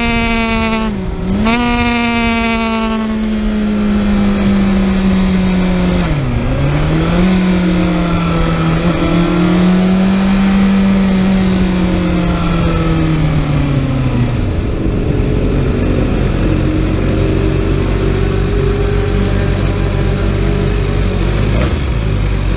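Kawasaki ZX-6R's inline-four engine running hard at high revs, its pitch slowly sagging with two brief dips at gear changes. About 14 seconds in the revs fall away to a low, steady run.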